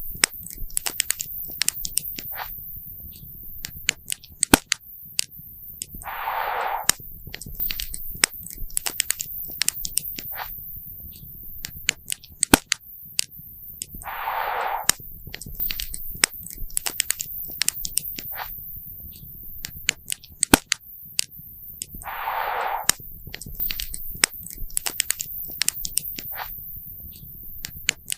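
Wood campfire crackling and popping, with many irregular sharp snaps over a low steady rumble of burning. A short hissing burst comes back about every eight seconds.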